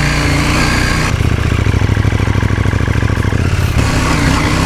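KTM 790 Duke's parallel-twin engine idling steadily while it warms up.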